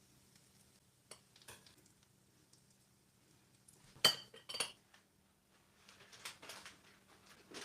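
Metal utensils clinking against dishes: a few light taps, then two sharp ringing clinks about four seconds in, with softer handling noises near the end.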